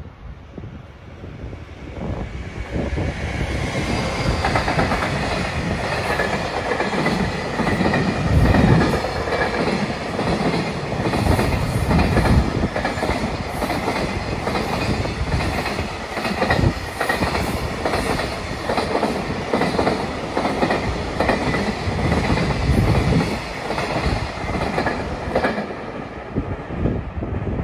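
JR Freight container train running past: steel wheels clattering over the rail joints, with a thin high squeal over the rumble. It builds over the first few seconds, then stays steady and loud.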